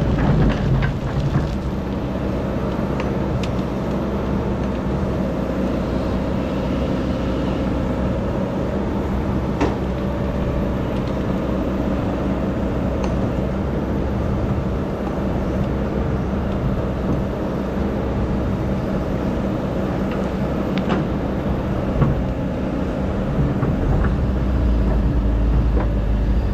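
Excavator's diesel engine running steadily, with a few sharp clanks along the way. The low rumble grows louder near the end.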